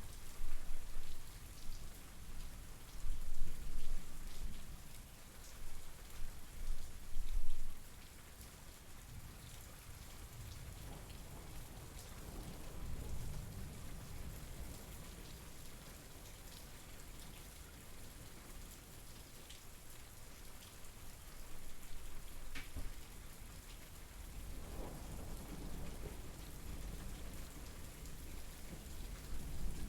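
Steady rain falling, with many individual drops ticking sharply against a surface. Low rumbling swells come and go through the first eight seconds, weaker ones return later, and between them the rain settles to an even hiss.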